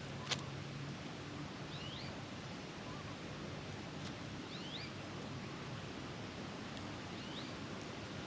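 A bird gives three faint, short rising chirps, spaced evenly over a steady outdoor background. There is a sharp click just after the start.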